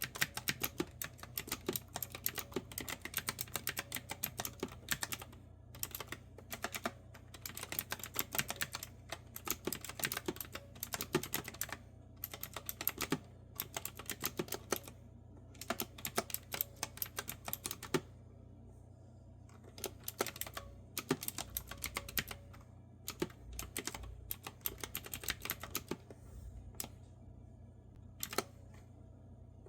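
Clicky retro-style keyboard with round keycaps being typed on: runs of quick, crisp keystrokes broken by short pauses, over a faint low hum.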